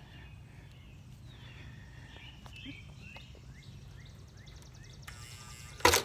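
A bird chirping in a quick run of short notes, about three a second, over a low steady hum. A loud thump near the end.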